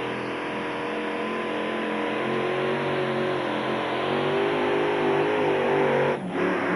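Modified pulling tractor engine running hard at high revs, its pitch steady with a slight waver, with a brief dropout about six seconds in.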